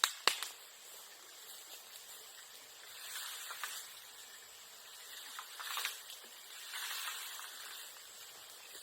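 Bonfire crackling in three short spells, with one sharp pop just after the start.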